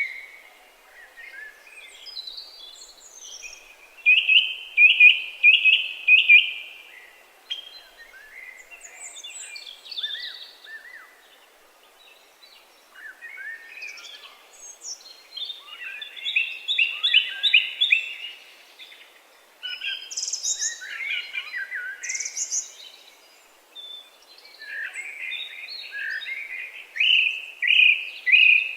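Several songbirds singing, with runs of quick repeated chirps, loudest in bursts about four seconds in, midway and near the end.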